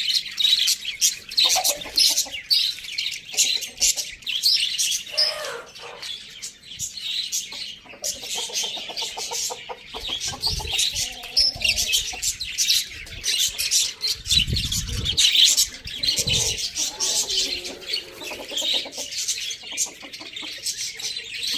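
Many small birds chirping and chattering rapidly and without pause, in a dense high twitter. Several low thuds come in the middle, around halfway and again a few seconds later.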